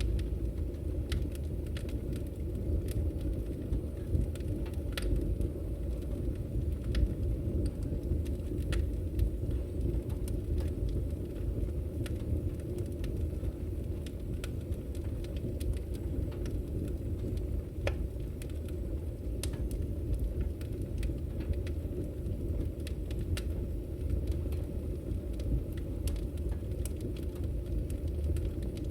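Firewood burning in a fireplace: a steady low rumble of the fire with irregular, scattered crackles and pops.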